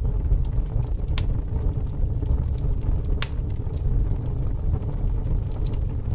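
A fire burning: a steady low rumble with frequent small crackles and two sharper pops, about one and three seconds in.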